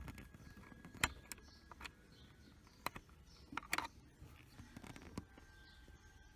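A few faint, sharp clicks and taps of small plastic and metal parts being handled and fitted during bench assembly of a car air-conditioner control unit, spaced a second or two apart.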